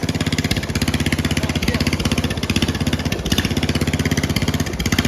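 Bolens mower engine running loud through a homemade open exhaust with no muffler, a fast, even popping pulse, dipping briefly a few times.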